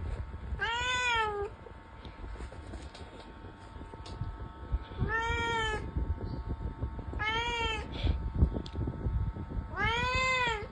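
A domestic cat meowing four times, each a drawn-out call that rises and then falls in pitch.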